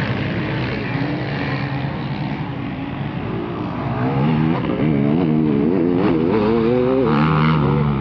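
Motocross bikes' engines revving as they ride round the track, the pitch rising and falling with the throttle, louder from about halfway as bikes come closer.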